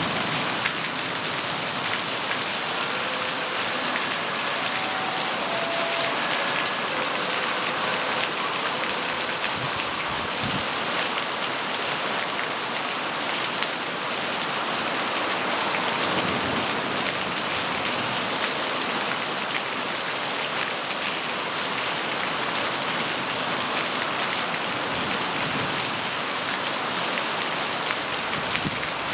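Heavy rain pouring down steadily, a dense, even hiss of drops on surfaces that holds at the same level throughout.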